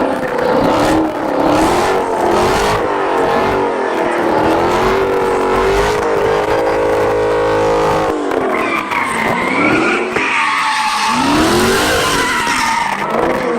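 Car engine revving hard, rising and falling, with tyres squealing as the car drifts; the revs hold steady for a couple of seconds about halfway through, then drop and climb again.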